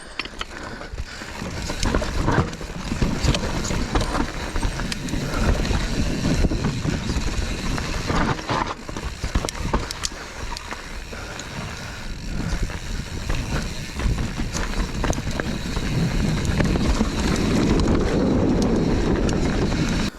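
Mountain bike descending a rough trail: tyres rolling over rocks and roots with constant rattles and knocks from the bike, and wind on the microphone. It gets louder and steadier in the last few seconds, then cuts off suddenly.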